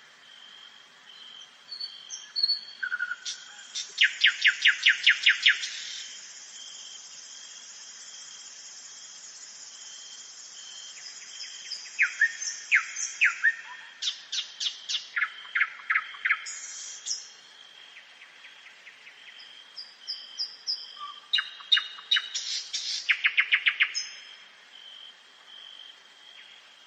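Nightingale singing at night: three song phrases, each built from rapid strings of repeated loud notes and short whistles, with pauses between them. A faint steady high tone runs underneath.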